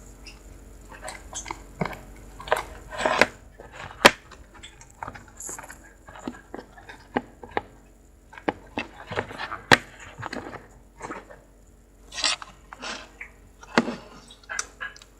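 Sticky green tea slime being pressed and worked, giving irregular wet clicks and pops as its many air bubbles burst.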